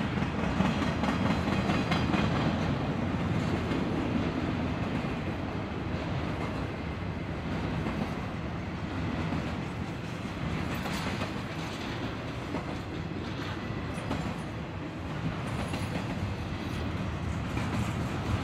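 Doublestack container cars of a heavy freight train rolling past, a steady rumble of steel wheels on the rails.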